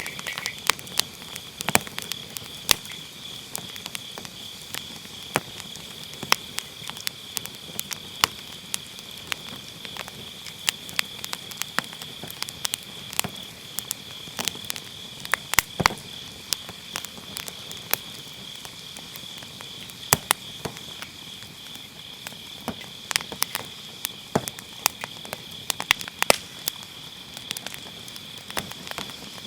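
Firewood burning in a fire pit, crackling with frequent irregular sharp pops, over the steady high chirring of autumn grass insects.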